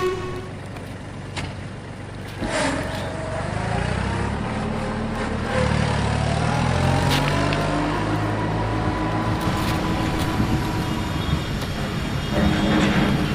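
A vehicle's motor running steadily, its pitch climbing about two and a half seconds in and again around six seconds before levelling off.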